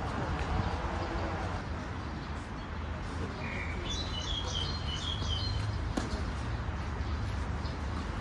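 A bird chirping a quick run of short, high notes for about two seconds in the middle, over a steady low rumble, with one sharp click just after.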